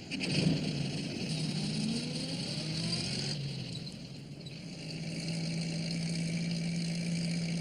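A small van's engine running and pulling away, with some rising revs early on, then a steady hum. A hiss of wind sits over it.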